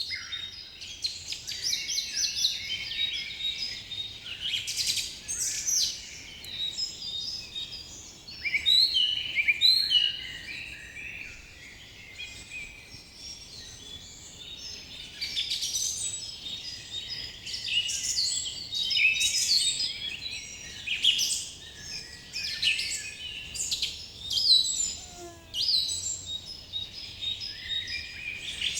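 A chorus of forest birds singing and calling at once: many overlapping quick chirps, whistles and trills, some rising and falling in loudness.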